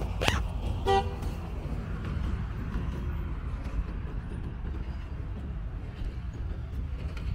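Steady low street-traffic rumble, with a single short vehicle horn toot about a second in, just after a brief sharp noise.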